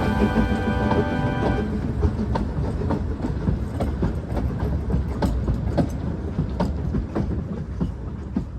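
A short stretch of music ends about two seconds in, leaving a train running over rail joints: a low rumble with repeated wheel clicks (clickety-clack), slowly growing fainter toward the end.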